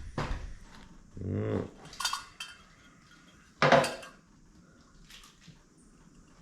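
Metal carburettor parts and tools clinking and knocking on a work tray as a Stromberg carburettor is taken apart: a few separate clinks, some with a brief ring, the loudest one a little past halfway.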